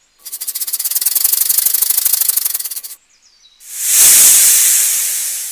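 A rattlesnake's rattle buzzing fast for about three seconds, then a snake's loud hiss that swells quickly and fades away.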